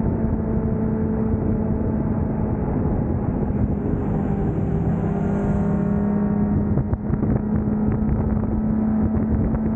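Motorcycle engine running steadily under way, a constant engine note over a heavy low rumble, with the pitch shifting briefly about halfway through.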